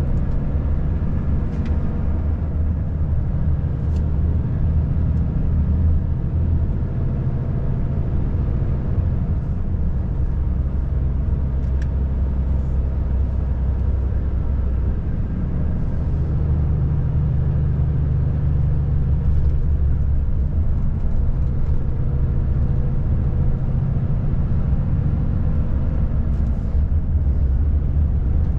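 Volvo FH540 truck's 13-litre inline-six diesel running steadily under way, a deep continuous drone that grows a little stronger partway through.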